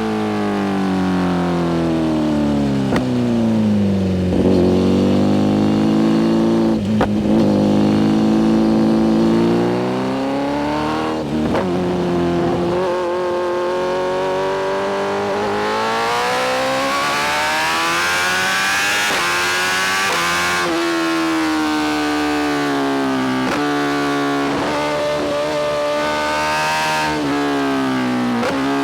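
BMW S1000RR's inline-four engine through a full titanium Spark exhaust while riding: the revs fall away over the first few seconds, then climb again under acceleration several times, with a sharp drop in engine speed about twenty seconds in before it rises and falls with the throttle.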